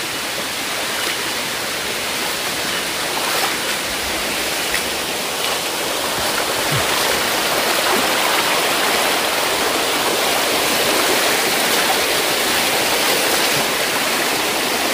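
Waterfall's rushing water, a steady dense rush that grows gradually louder.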